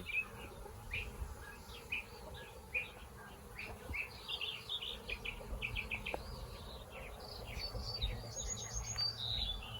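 Honeybees humming steadily around an open, smoked hive, with small birds chirping repeatedly over it and a quick run of higher chirps near the end.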